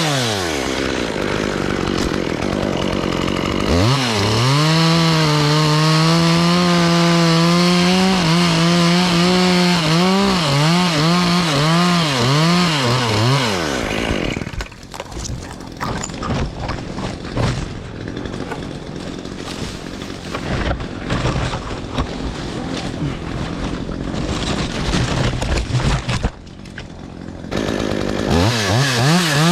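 Gas chainsaw cutting tree limbs, revving up and down in bursts. For about 13 seconds in the middle the saw drops away, leaving irregular cracks and rustling, then it revs up again near the end.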